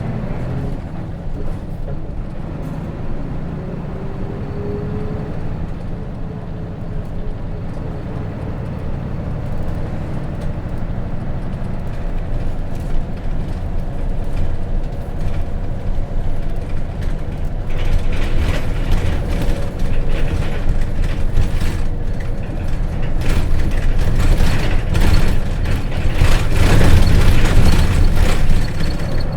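Hino RJ city bus with a J08C six-cylinder diesel, heard from inside the cabin while under way: the engine runs steadily under road noise. In the second half it grows louder, with more clatter and knocks from the bus body.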